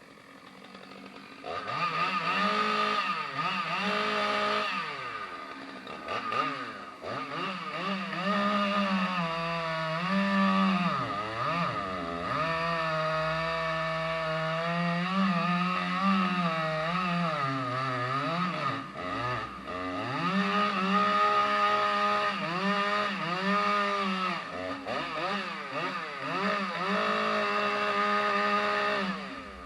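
Two-stroke chainsaw cutting firewood, starting about a second and a half in. The engine note dips again and again as the chain bites into the wood under load, then climbs back between cuts.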